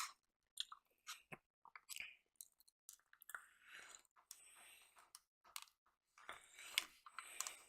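Faint close-up chewing of syrupy French toast: soft, wet mouth sounds and small clicks that come and go, a little louder near the end.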